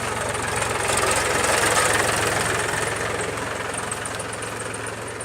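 Mahindra tractor's diesel engine running steadily with a fast, even firing pulse, and a louder rush of noise swelling and fading in the middle.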